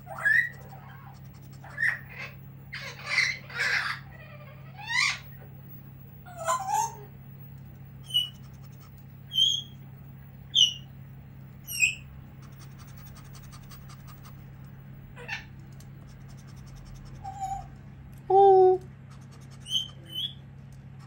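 A pet bird calling: short, high chirps and squawks, a run of them about a second apart in the middle, and a louder, lower call near the end.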